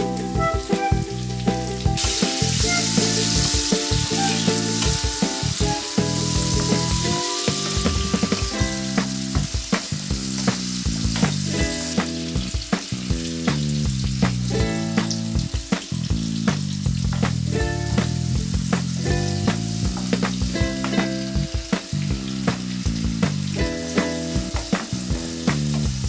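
Chopped tomatoes, onions and chillies sizzling in hot oil in a frying pan, stirred with a wooden spatula that knocks and scrapes against the pan. The sizzle is strongest from about two seconds in until about twelve seconds in, with background music throughout.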